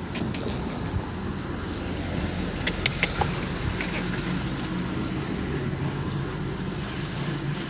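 An engine running steadily with a low hum, with a few light clicks and jingles about three seconds in.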